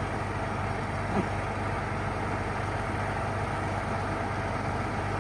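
Engine of a heavy machine, the stuck tractor or the bulldozer brought to push it, running steadily with a constant low hum and no change in speed.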